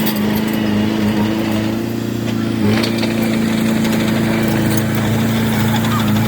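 Komatsu D20P bulldozer's diesel engine running at a steady speed, its note wavering briefly about two and a half seconds in.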